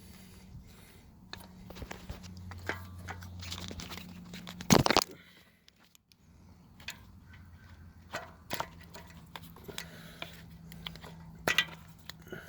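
Plastic clicks and rattles of the ignition coil connector clips being worked loose by hand on a Honda R18 engine, with one louder clatter about five seconds in.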